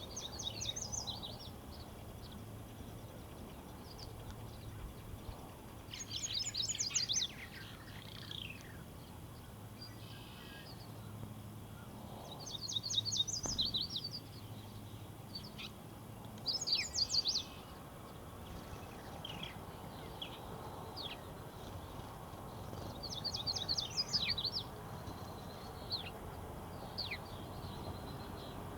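A songbird singing a short, high, rapid song about every six seconds, with single thin chip notes between the songs, over a steady low background hum.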